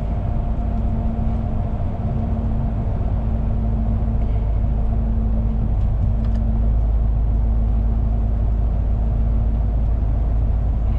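Steady low drone of a heavy truck's engine and tyres heard from inside the cab while driving, with a steady hum that drops out about halfway through.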